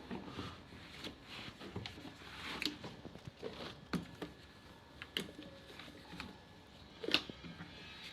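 Scattered light clicks and knocks of things being handled, the loudest about seven seconds in.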